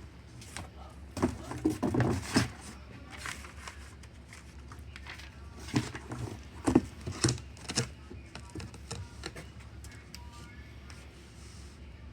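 Two clusters of short knocks and scrapes, one about a second in and another around six to eight seconds, over a steady low hum: handling noise on the torque converter while it is being signed.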